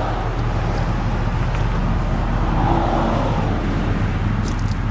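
2001 Mercury Cougar's 2.5-liter DOHC 24-valve V6 idling steadily, a low even hum with a slight swell of noise about halfway.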